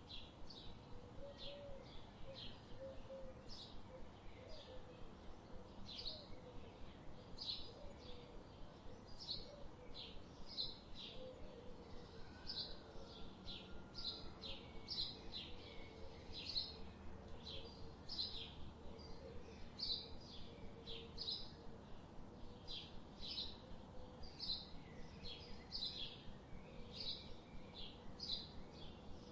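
Canada goose goslings peeping: a steady run of short, high peeps, about one or two a second.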